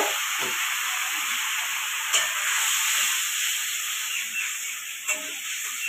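Spice paste sizzling in an aluminium kadai, a little water just added to the masala as it is sautéed, giving a steady hiss while it is stirred. A single knock about two seconds in.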